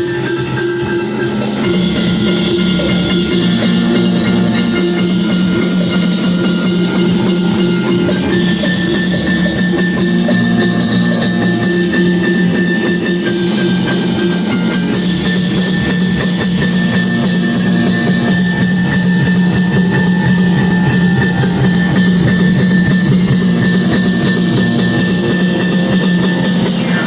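Live rock band playing a loud instrumental passage: drum kit with cymbals and bass drum driving under electric guitar and bass.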